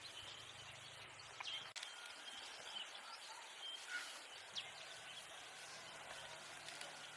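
Faint outdoor ambience: a steady hiss with a few short, scattered bird chirps.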